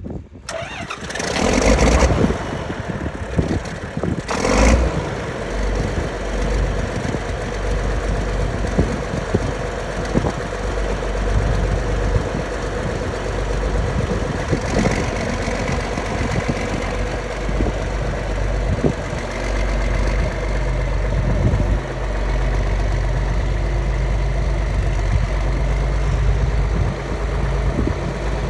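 John Deere 4430's six-cylinder diesel engine starting up: it catches within the first couple of seconds, flares loudly again about four and a half seconds in, then settles into a steady idle.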